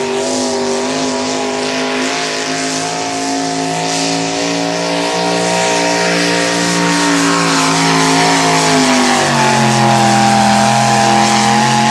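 Turbocharged pulling tractor's engine running hard at high revs under load. Its pitch holds fairly steady, drops about nine seconds in, then holds lower.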